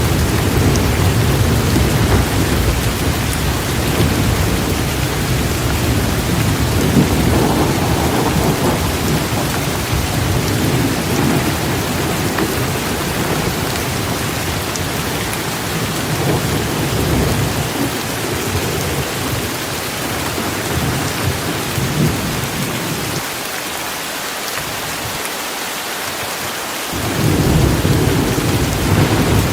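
Torrential rain falling steadily with low rolling thunder rumbling under it; the rumble dies away for a few seconds near the end, then comes back.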